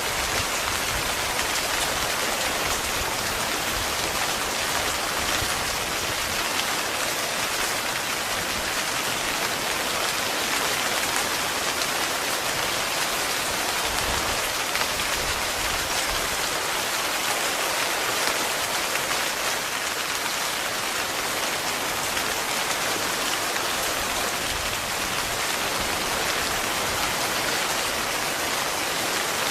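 Heavy rain falling steadily on a tent, a dense even patter with no let-up or thunder.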